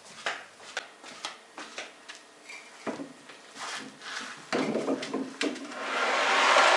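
Old reused bricks being handled and set down on a wooden table, with repeated short knocks and clinks. Near the end comes a longer, louder rush of noise that swells and fades over about two seconds.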